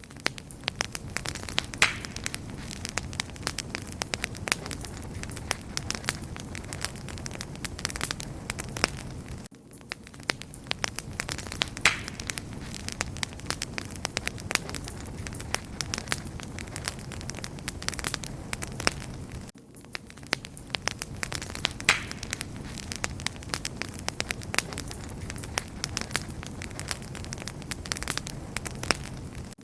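Wood fire crackling and popping: a steady hiss of burning with dense sharp snaps. The level briefly dips about every ten seconds, where the same stretch of fire sound repeats.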